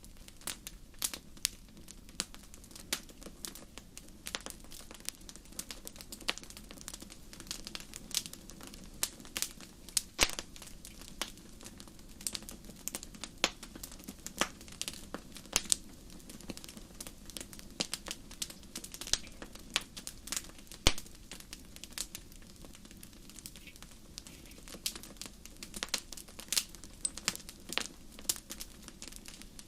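Wood fire crackling: irregular sharp pops and snaps, several a second with now and then a louder one, over a low steady background.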